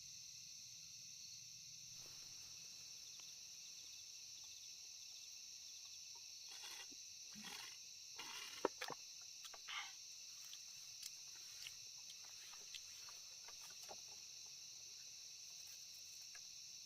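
Steady, high, shrill chorus of night insects such as crickets. About halfway through, a short cluster of scrapes and rustles and one sharp knock breaks in, then a few faint clicks.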